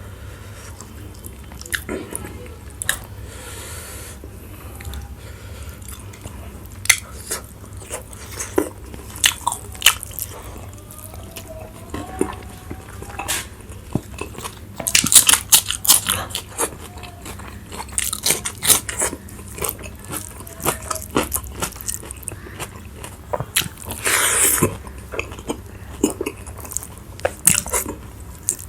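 Close-miked eating: crunchy bites and chewing in irregular bursts, densest in the second half, over a steady low hum.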